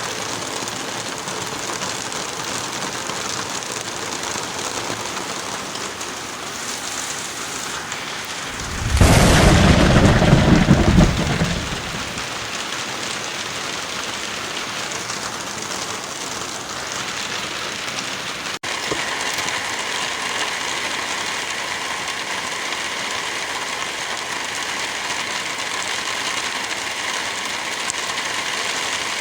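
Heavy rain falling steadily as an even hiss. About nine seconds in, a loud, deep peal of thunder lasts a couple of seconds and fades. Just past halfway the sound drops out for an instant and picks up again as a slightly different, steadier rain hiss.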